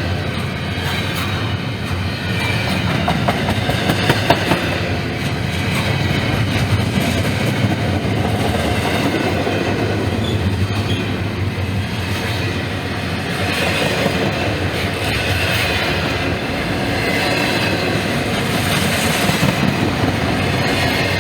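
Norfolk Southern freight train rolling past, with a steady rumble of wheels on rail and the clickety-clack of cars over rail joints.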